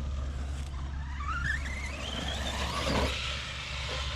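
Electric RC monster truck's brushless motor whining as the truck accelerates, the pitch rising steadily for about two seconds before it eases off.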